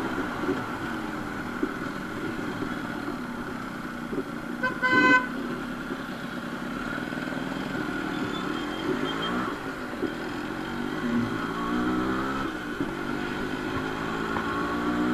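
Yamaha RX100's two-stroke single-cylinder engine running through a silencer with its inner baffle cut out, its pitch rising and falling as the bike is ridden. A vehicle horn honks once, about five seconds in, the loudest sound.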